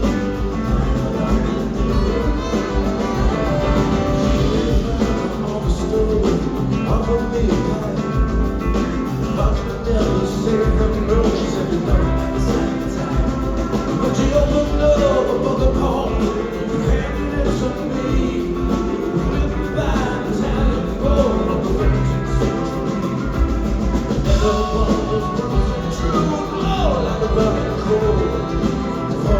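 Live rock band playing an instrumental break, with drums and bass under a lead line that bends and glides in pitch.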